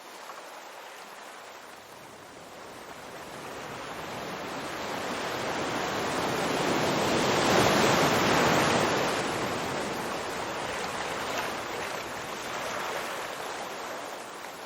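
Ocean waves breaking on a shore: one wave's wash swells slowly to a peak about halfway through, then recedes.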